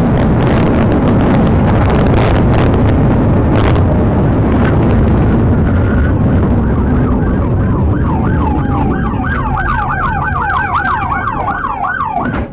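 Police car siren in a fast yelp, rising and falling about four times a second, standing out clearly over loud road and engine noise in the second half.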